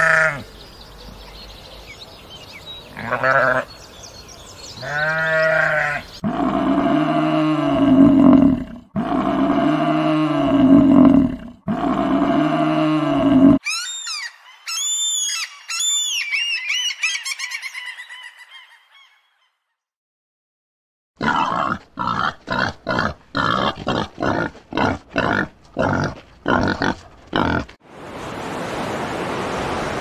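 A run of animal calls across several clips. First come repeated deep bleating calls from a Barbary sheep, then shrill repeated calls from a black-legged kittiwake. After a short silence there is a series of short sharp sounds, about two a second, and near the end waves wash onto a beach.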